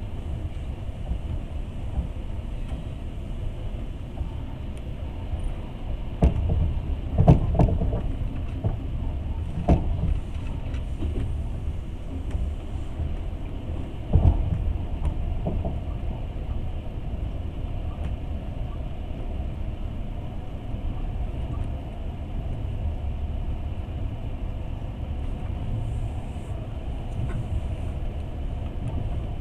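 Passenger train running along the rails, heard from inside the carriage: a steady low rumble, with a few louder knocks from the wheels and carriage about six to ten seconds in and again at about fourteen seconds.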